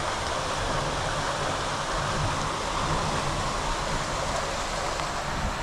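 Steady rush of floodwater pouring from a storm drain after heavy rain.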